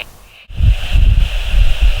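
Wind buffeting the microphone outdoors: loud, gusty low rumble that starts abruptly about half a second in, with a steady high-pitched hiss above it.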